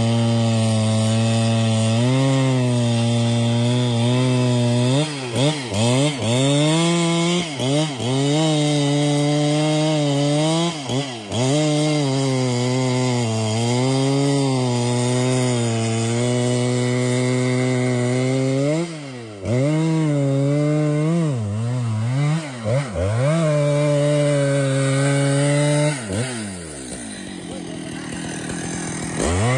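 Two-stroke chainsaw running at high revs while cutting into a tree, its pitch repeatedly sagging and recovering as the chain bites into the wood. About 26 seconds in the engine drops back and quietens, then revs up again near the end.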